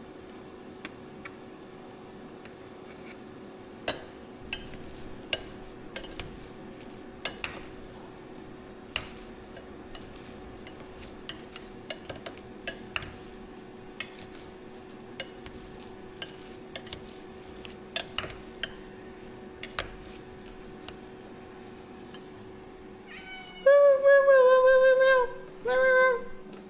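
A utensil stirring food in a dish, with irregular clinks and taps against it, over a faint steady hum. Near the end a cat meows loudly twice, the first call long and the second short.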